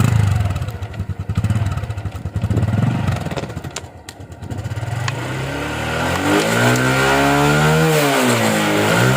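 Motorcycle engine running with fast, even exhaust pulses. About five seconds in, a sustained pitched tone takes over, dipping in pitch and rising again near the end.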